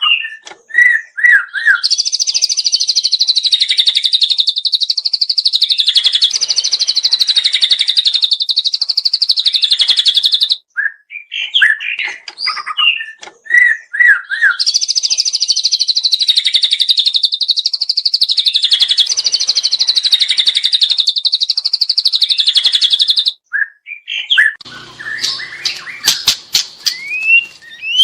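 Juvenile white-rumped shama singing: short whistled phrases, then two long, rapid, high trills of about eight seconds each, with more whistled notes between them. Near the end come a few quick whistles and a run of sharp clicks.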